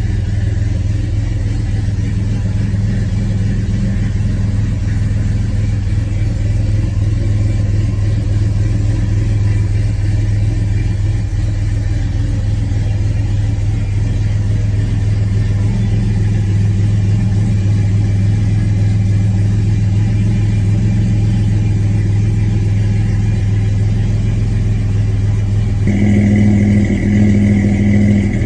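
1963 Chevy Nova's engine running steadily just after a cold start, having sat unused for three weeks in freezing weather. Near the end a steady higher-pitched hum joins in and the sound gets a little louder.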